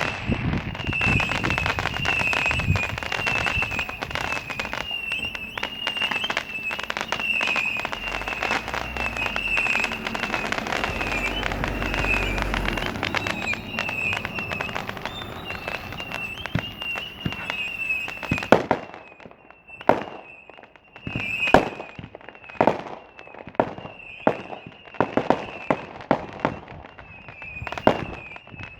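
Fireworks going off: a dense barrage of overlapping bangs and crackle that thins out after about eighteen seconds into separate sharp reports, roughly one a second.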